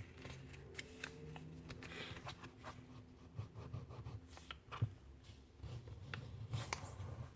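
A sheet of printer paper being folded and creased by hand: faint rustling with scattered small ticks, and a sharper crisp tick near five seconds in and again near seven.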